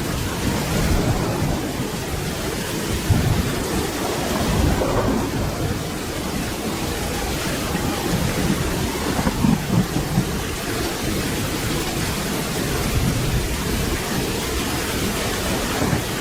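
Steady rain falling, with low thunder rumbling underneath that swells a few times.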